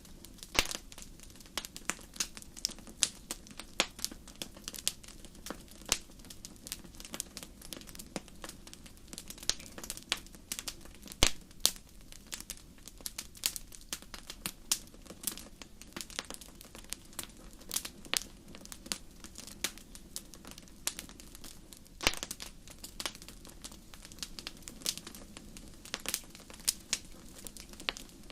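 Wood fire crackling in a fireplace: irregular sharp pops and snaps, several a second, some much louder than others, over a low steady hiss of burning.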